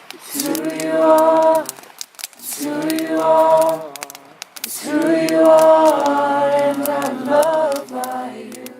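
Voices singing together, choir-like and without instruments, in held notes of about a second or more with short breaks between phrases.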